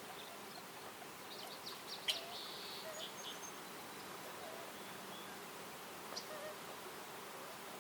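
Forest ambience: a steady faint background with brief, high bird chirps, a quick cluster of them about a second and a half to two and a half seconds in, the loudest a sharp note just after two seconds, and a lone short chirp about six seconds in.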